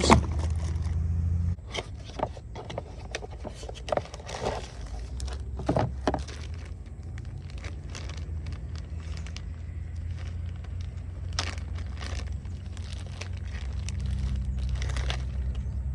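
Scattered clicks, scrapes and rustles of packaging as new truck fuel-system parts are handled and unpacked, over a steady low hum.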